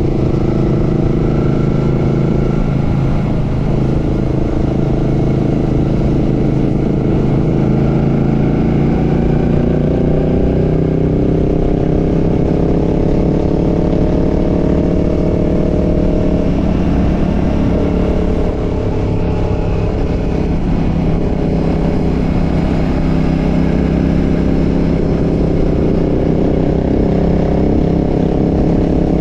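Royal Enfield Classic 650's parallel-twin engine and exhaust under way on the road. The pitch climbs slowly through the middle and falls back about 17 seconds in, with a lower dip about 3 seconds in, over a rush of wind and road noise.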